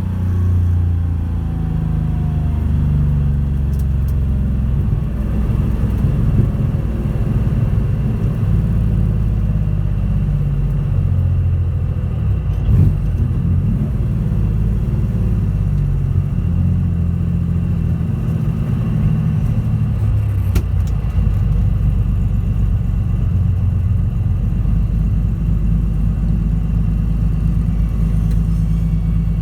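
Porsche 911 rally car's flat-six engine running while driving, its revs rising and falling in steps, with the pitch dropping near the start. A sharp knock is heard about 13 seconds in and another about 21 seconds in.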